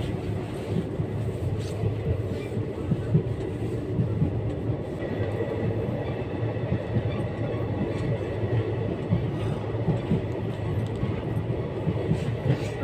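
Passenger train running, heard from inside the coach: a steady low rumble with irregular small rattles and knocks.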